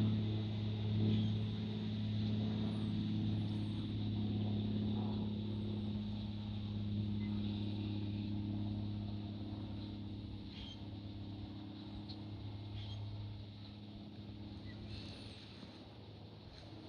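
Aircraft engine hum: a steady low drone that slowly fades away.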